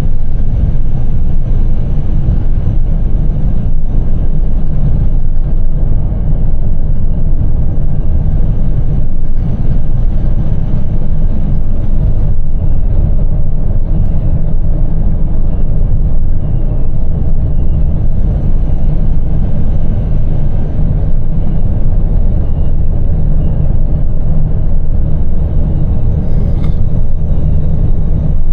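Small box truck driving on the highway, heard from inside the cab: a steady low rumble of engine and road noise.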